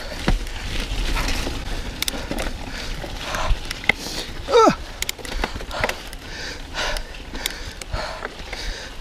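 Mountain bike riding over a wet, slippery trail: tyre noise with scattered clicks and rattles from the bike, and a rider's hard breathing. A short falling squeal comes about halfway through.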